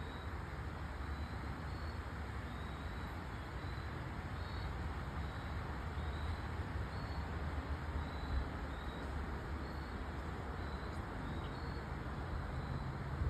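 Steady outdoor ambience under a dark, rainless sky: a continuous low rumble with an even hiss, and a faint short high chirp repeating about once a second.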